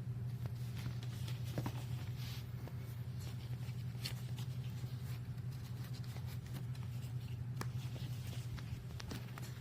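A steady low hum with scattered light clicks and short rustles over it.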